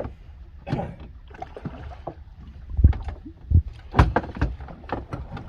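Several heavy knocks and thumps on a boat's deck, the loudest bunched about three to four and a half seconds in, over a steady low rumble.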